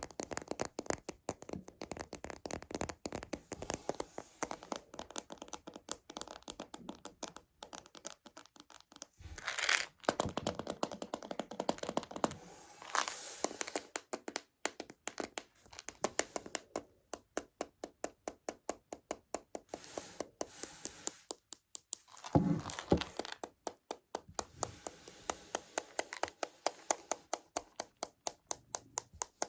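Fingers tapping rapidly on a Choco Baby chocolate candy container, in quick even clicks, with a few longer rustling, crinkling sounds in between.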